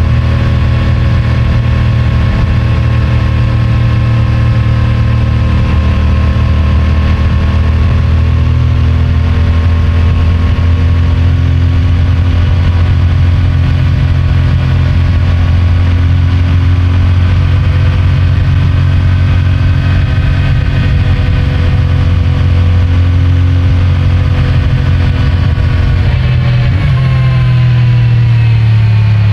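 CFMOTO 450MT's parallel-twin engine and stock exhaust running steadily while riding along. The engine pitch holds with slow drifts, then dips and climbs again near the end.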